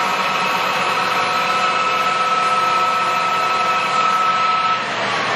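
American Model C heavy-duty engine lathe running under power with its spindle at 1,000 RPM: a steady high whine over a hum of several steady tones. The high whine drops away near the end.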